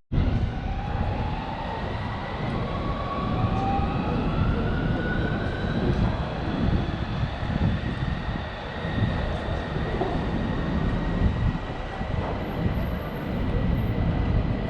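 Electric train running and picking up speed, its traction motors whining in several tones that rise in pitch over the first few seconds, over a steady rumble.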